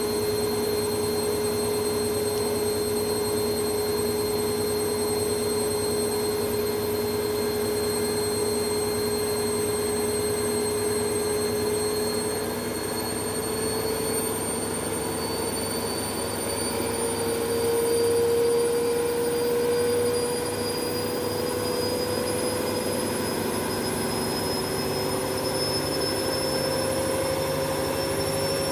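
Indesit washing machine on a fast spin: a steady motor whine over the drum's running noise, its pitch creeping slowly upward as the drum gathers speed, with a second tone climbing from about halfway through.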